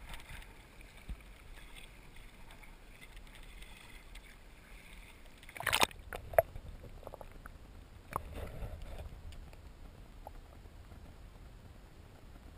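Water lapping softly against a kayak's hull. A little before the middle comes a sudden sharp whoosh, followed by a few light clicks.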